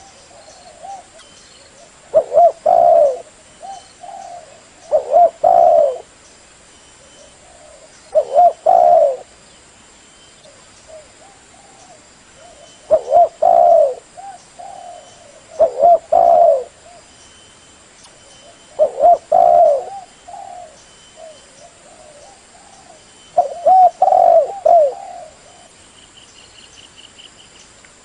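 Spotted dove (tekukur) cooing: a phrase of a few low coos, repeated about seven times at intervals of two to four seconds.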